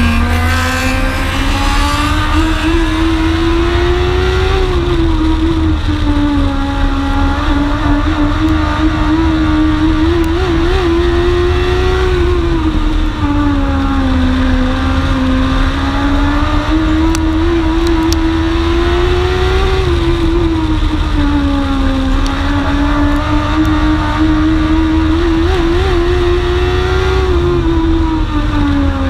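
Dwarf race car's motorcycle engine, heard from onboard, running hard on an oval: the engine note climbs down each straight and drops back for each turn, about every seven to eight seconds.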